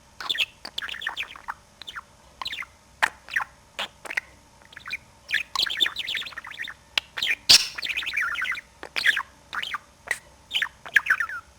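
Pet budgerigar chattering: a fast, busy run of short chirps and falling whistled notes, with one sharp click just past the middle.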